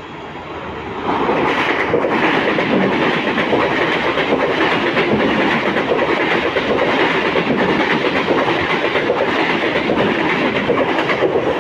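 A train running past on the rails, its wheels clattering steadily. The noise swells over the first second, then holds.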